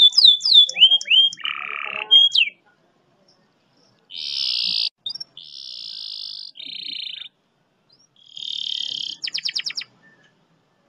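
Domestic canary singing: a run of quick falling whistled notes, then several long buzzing rolls with silent gaps between them, and a fast rattling trill near the end.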